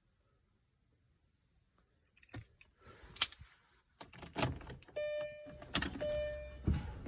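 Car keys jangling and a few sharp clicks after a brief near silence. From about four seconds in there is handling noise inside the car and a repeating electronic chime of steady tones.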